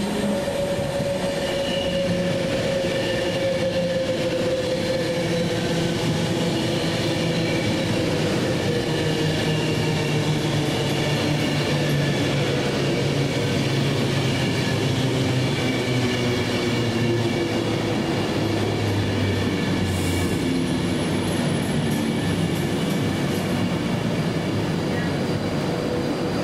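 A train running through the station and slowing, its running tone falling steadily in pitch over about twenty seconds.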